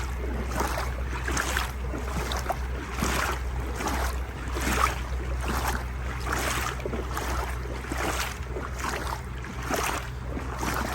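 Strong wind on the microphone as a steady low rumble, with heavy rain and floodwater making an irregular surging hiss over it.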